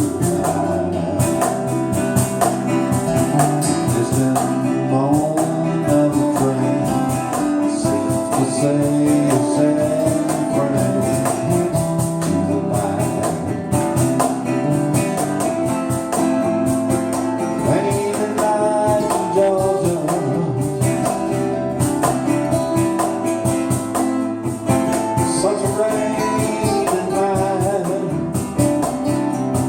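A band playing a slow song: guitars over a steady beat, with a melody line sliding between notes on top.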